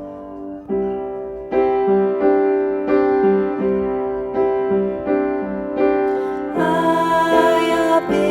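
Piano playing a slow, steady run of chords as choir rehearsal accompaniment. The sound grows fuller and brighter about six and a half seconds in.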